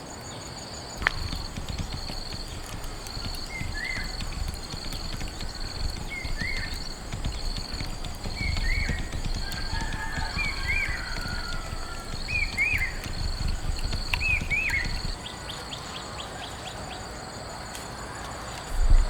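Insects chirping in a steady pulsing rhythm. A short rising-and-falling animal call repeats about every two seconds through the middle, turning into double notes near the end, over a low rumble. One sharp click comes about a second in.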